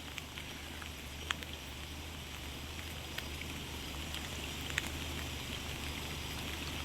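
Quiet, steady outdoor background hiss with a low hum underneath and a few faint, scattered ticks, like drips.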